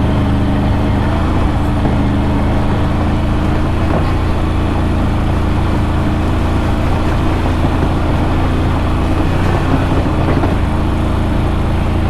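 ATV engine running at a steady speed while riding on a trail, with no change in revs.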